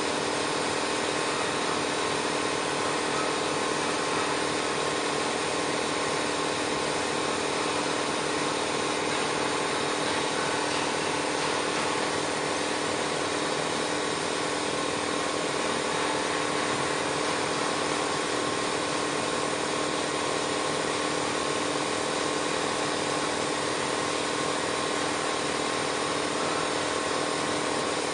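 Polygon pole welding machine running steadily: a constant hum with an even hiss, with no change in level or pitch.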